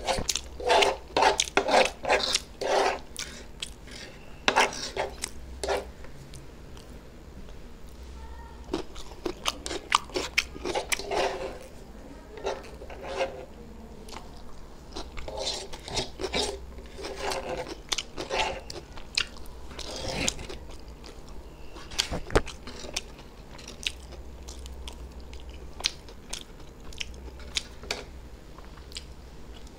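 Close-up chewing and smacking of a mouthful of chow mein noodles: irregular clusters of wet mouth clicks with short pauses, and now and then a single sharper click.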